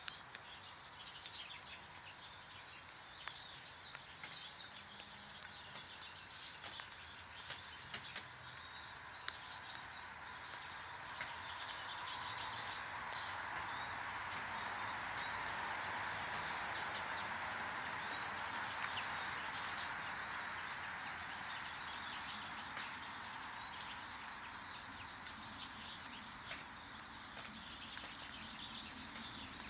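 Small wild birds chirping intermittently around a garden bird table, with small clicks and taps throughout. Midway, a broad rushing noise swells and then fades away.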